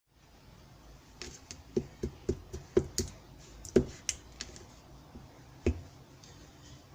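Clear slime being pressed and poked by hand, giving a quick irregular series of sharp clicking pops, the loudest about two-thirds of the way through.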